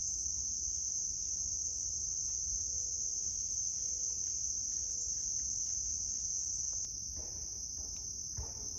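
Insects trilling in one steady, unbroken high-pitched drone; it drops a little in loudness about seven seconds in.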